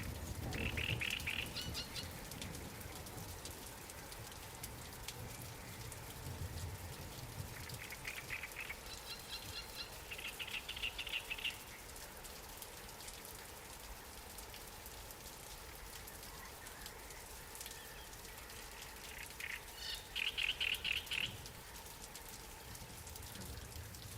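Light rain pattering steadily, with short trilled bird calls, each a rapid run of high notes, four times: near the start, twice in the middle and once near the end.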